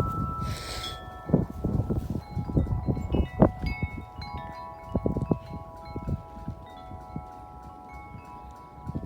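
Corinthian Bells 36-inch tubular wind chime ringing in strong wind. Its tubes are struck irregularly, one sharp strike stands out about three and a half seconds in, and the tones hang on between strikes. Wind rumbles on the microphone underneath, strongest in the first few seconds.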